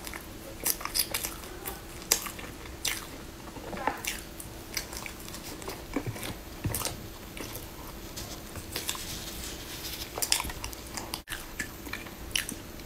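Close-miked mouth sounds of someone chewing a soft, floss-coated bread roll: irregular wet smacks and clicks, over a faint steady hum.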